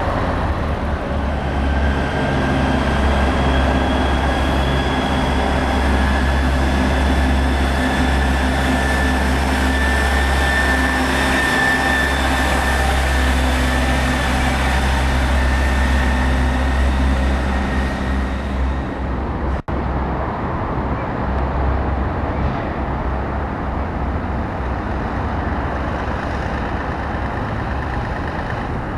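Heavy diesel truck engine running close by, with a steady hum and a high whine that rises a little, then falls. About two-thirds of the way through, the sound cuts out for an instant and quieter truck engine noise follows.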